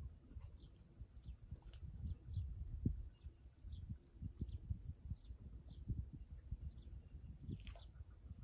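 Birds chirping in many short, high calls over an irregular low rumble.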